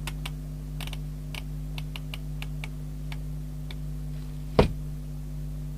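A run of small irregular clicks, like a detented rotary CB channel selector being turned step by step, then one louder click about four and a half seconds in. A steady hum runs underneath.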